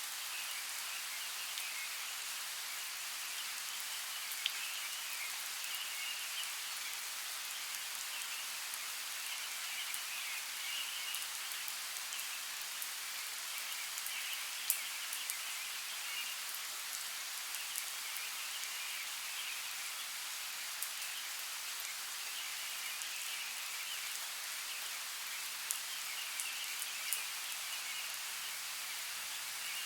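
Steady rain falling, with scattered drips ticking on surfaces, and an on-and-off chirring chorus of small calling animals in the background.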